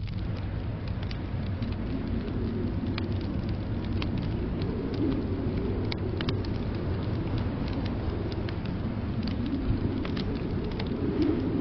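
Wood fire crackling in a fireplace, with sparse sharp pops, over a steady low rumble of blizzard wind that swells twice.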